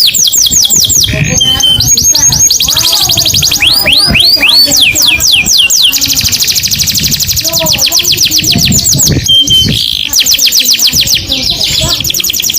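Canary singing long, fast trills of repeated sharp descending notes. It switches to a new trill every second or two, with a couple of brief steady whistles between phrases.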